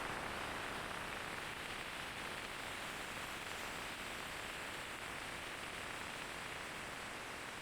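Steady hiss of a rain-wet street, slowly fading.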